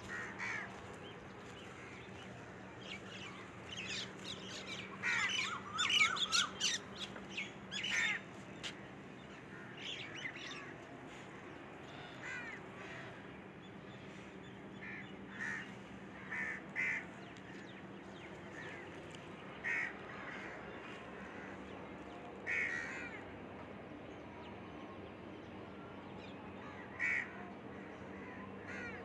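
Birds calling outdoors: a flurry of overlapping short calls a few seconds in, then single short calls every second or two.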